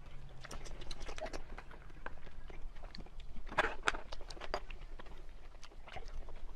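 Close-miked eating sounds: irregular wet chewing and mouth clicks, loudest about three and a half seconds in.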